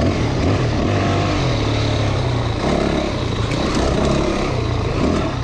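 Off-road motorcycle engine running steadily while riding along a dirt trail, with wind noise over the microphone.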